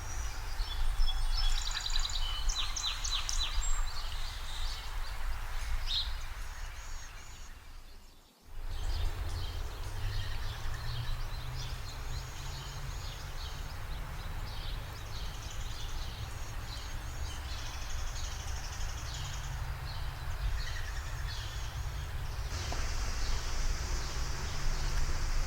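Outdoor ambience: birds chirping and calling over a steady low rumble. The sound fades out and cuts about eight seconds in, then picks up again with more birdsong.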